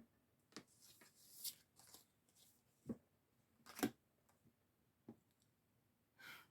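Oracle cards being shuffled and drawn by hand: a few faint, separate rustles and soft snaps of card stock.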